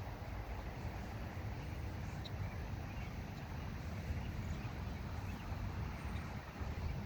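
Steady low rumbling outdoor noise, with a few faint short high chirps scattered through it.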